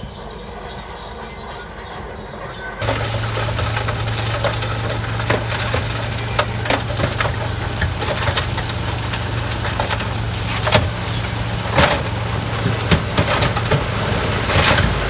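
A heavy diesel earthmoving machine's engine running with a steady low hum, over frequent sharp clanks and knocks. The sound switches abruptly from a quieter, noisier machine sound to this louder one about three seconds in.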